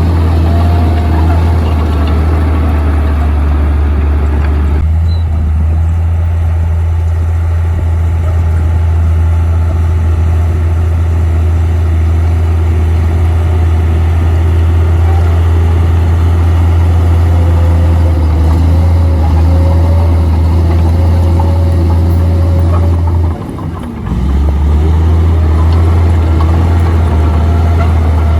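Komatsu D58P bulldozer's diesel engine running steadily with a heavy low hum. It dips briefly about 23 seconds in, then picks up again.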